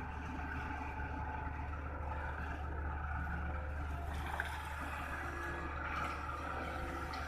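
Heavy diesel engine running steadily with a constant low hum, the sound of earthmoving machinery at work.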